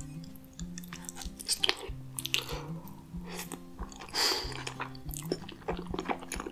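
Close-miked chewing of cheesy lasagna: wet, squishy mouth sounds with small clicks, and one louder wet burst about four seconds in. Soft background music plays underneath.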